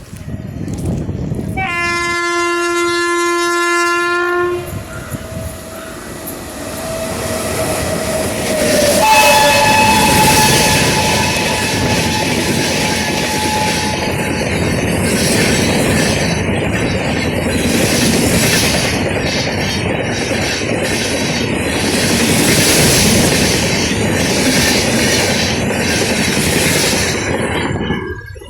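WAP7 electric locomotive sounding its shrill horn in one blast of about three seconds, then a second horn note about nine seconds in as it arrives. The express train then passes at speed, its wheels clattering rhythmically over the rail joints for nearly twenty seconds until the sound cuts off.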